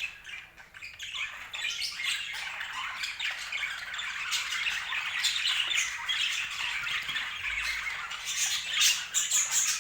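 Budgerigars chattering: a continuous jumble of warbles, chirps and clicks, with sharper squawks near the end.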